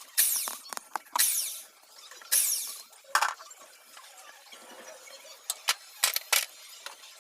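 Hand-tool work on a diesel engine being taken apart: three rasping strokes about a second apart, then a knock and several sharp metal clicks.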